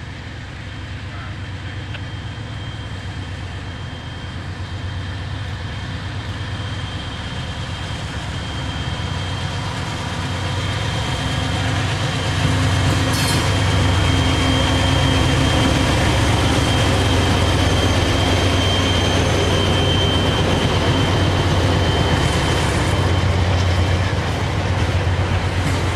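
Diesel locomotives of a freight train running by, their low engine hum growing louder over the first half and then holding steady, with a faint high-pitched whine through the middle.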